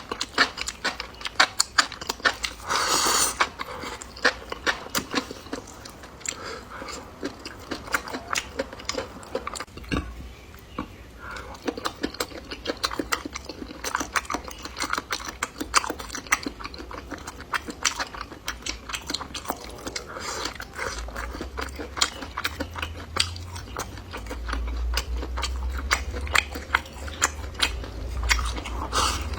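Close-miked mouth sounds of a person eating: continuous chewing and biting, with many sharp, irregular clicks and smacks. A low rumble runs underneath in the second half.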